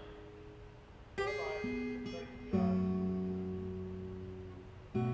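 Background music: acoustic guitar chords, struck about a second in, again about two and a half seconds in and near the end, each left to ring and fade.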